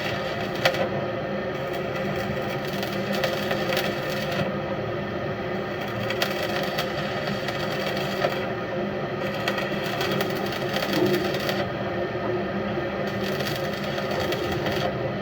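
Steady machinery noise with a constant hum, scattered with short sharp clicks and knocks.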